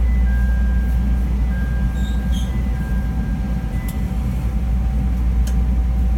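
Chicago 'L' rapid-transit train standing at the platform: a steady low rumble of the car's onboard equipment, with a thin electric whine that comes and goes during the first four seconds.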